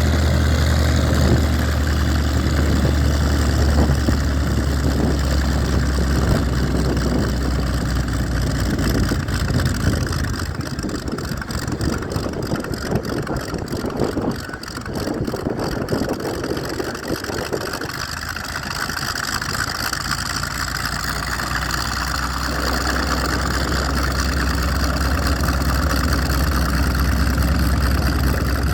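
Hawker Sea Fury's piston engine running on the ground in a test run, a steady low drone. About a third of the way in the engine note breaks up and drops off, then settles back into a steady run that slowly gets louder near the end.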